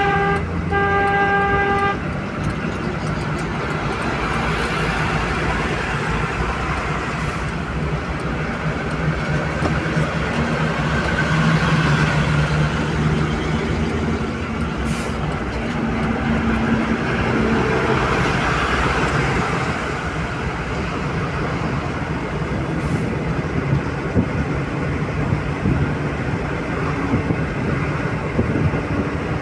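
A car horn sounds one steady blast lasting about two seconds. Under it and after it comes the steady engine and road noise of a car driving at highway speed.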